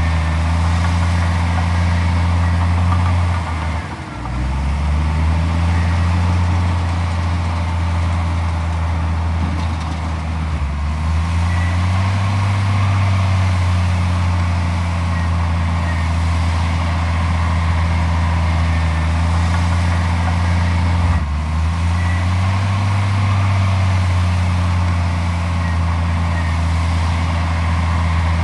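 Heavy diesel earthmoving engine running steadily under load. Its pitch drops briefly about four seconds in and again about twenty-one seconds in, then climbs back as it revs up again.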